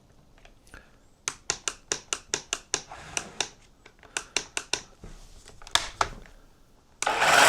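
A run of sharp clicks, about four a second, as the DeWalt cordless chainsaw's controls are worked while the chain brake is on and the saw does not start. Near the end the electric motor starts and the chain whirs up in pitch, getting up to speed.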